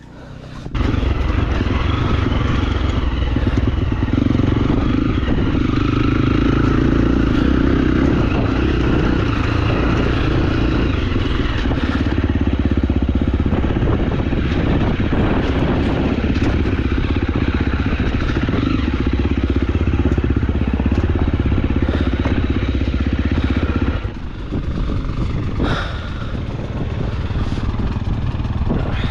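KTM enduro dirt bike engine running under throttle on a rough trail. The engine comes in loudly under a second in and eases off about 24 seconds in.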